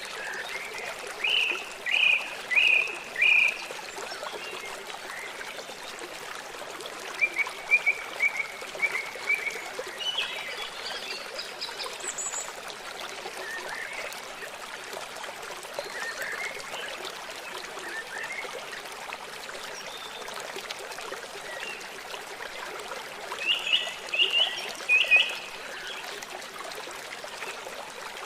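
Steady rush of running water, with wild birds chirping over it in short phrases of a few quick repeated notes, several times.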